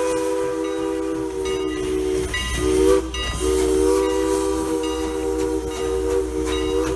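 Steam locomotive's chime whistle sounding a chord of several notes at once: a long blast that stops a couple of seconds in, a short toot, then another long blast that cuts off near the end.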